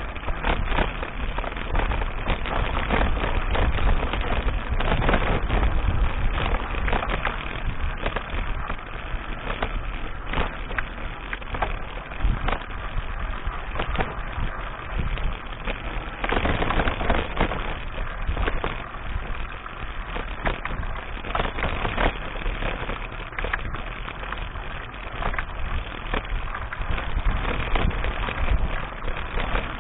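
Wind rumbling on an action camera's microphone during a mountain bike ride, with frequent knocks and rattles as the bike runs over rough track.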